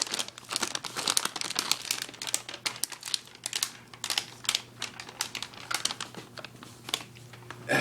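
Packaging crinkling and crackling as it is handled, in dense irregular crackles that thin out near the end.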